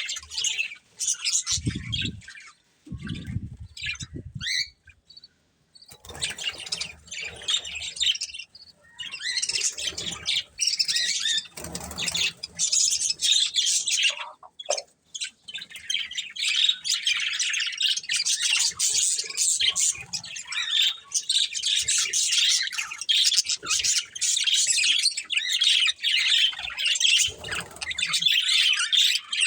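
Budgerigars chirping and chattering in rapid high-pitched warbles, patchy for the first few seconds with a couple of low thuds, then nearly nonstop from about nine seconds in.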